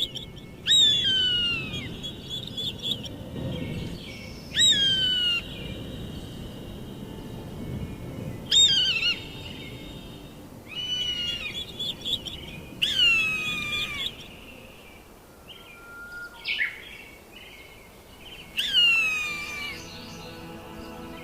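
A bird of prey calling: six loud, high screams a few seconds apart, each falling in pitch over about a second.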